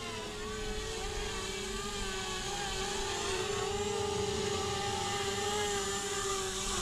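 XK Models X450 RC foam plane's electric motors and propellers whining steadily while it is brought in to land, the pitch wavering slightly, then stopping at the very end.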